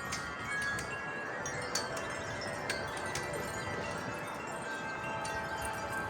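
Wind chimes ringing softly in a weak gust: many overlapping, lingering tones with a few light strikes.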